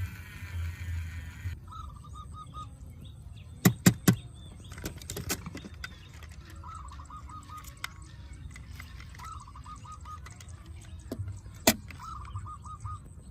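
A bird calling in short phrases of about five quick chirps, repeated every few seconds, over a low steady hum. Three sharp clicks come about four seconds in, and another near the end.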